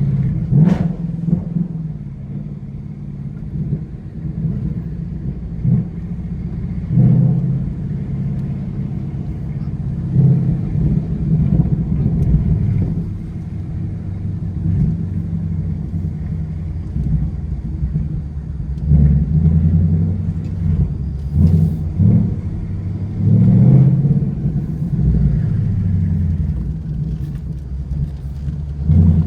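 2021 Ford Mustang GT's 5.0-litre V8 running while driving, its exhaust note rising and falling as the throttle is opened and eased off, with several louder surges.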